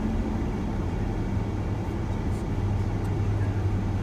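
Steady road and engine noise of a moving van, heard inside the cabin as a continuous low hum.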